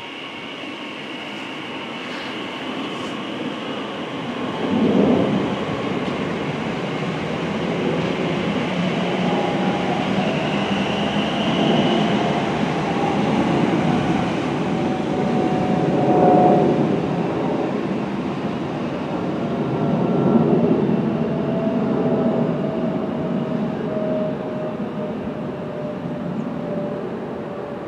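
Passenger train passing: a steady rumble of wheels on rail that builds over the first few seconds and swells several times, with a faint whine slowly falling in pitch.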